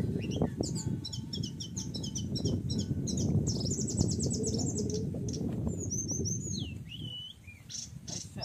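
Small birds chirping, with a fast run of repeated notes about three seconds in and a few down-slurred whistles about six seconds in, over a steady low rumble.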